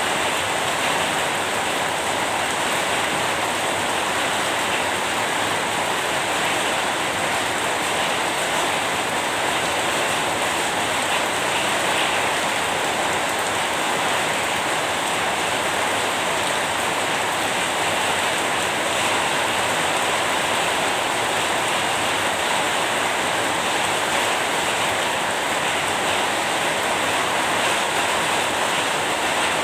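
Steady rain falling, an even hiss of many drops with no single drops or thunder standing out.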